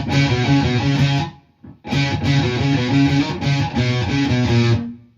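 Electric guitar playing a low single-note riff on the A string, moving between the 5th and 3rd frets, in two phrases with a short break after about a second.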